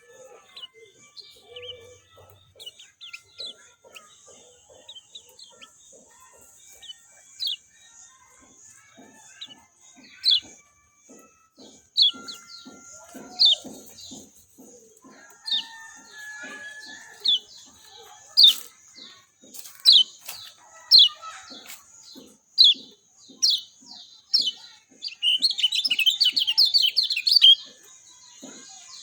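Kecial kuning (a white-eye) calling: sharp, high, falling chirps about once a second, then a fast chattering burst near the end, over a steady high hiss.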